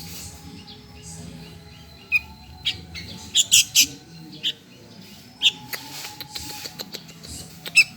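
Sooty-headed bulbul chick begging for food with short, sharp, high chirps at irregular intervals, several coming close together around the middle.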